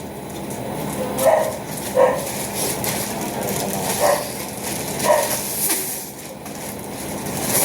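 A dog barking about four times in short, separate barks over a steady hiss.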